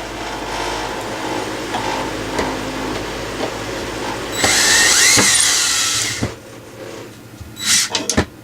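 DeWalt cordless drill spinning while backing out screws. It is loudest for about two seconds near the middle, where its pitch rises and then falls. A few knocks follow near the end.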